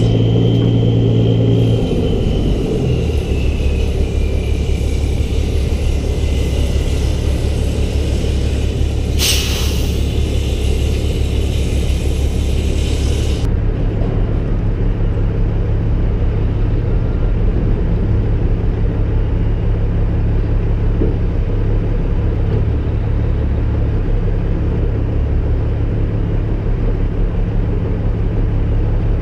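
Peterbilt 388 heavy truck's diesel engine running steadily, its pitch dropping about two seconds in. A short hiss of air about nine seconds in.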